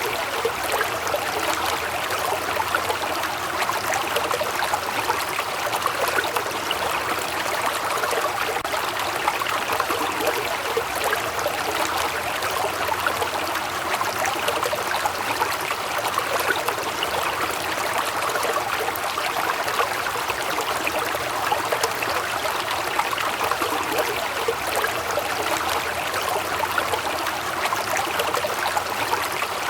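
Waterfall: water splashing and rushing in a steady, unbroken rush.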